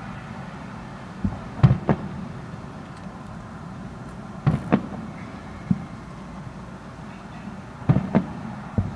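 Aerial fireworks bursting at a distance: about nine sharp bangs, mostly in pairs a quarter-second apart, over a steady background rumble.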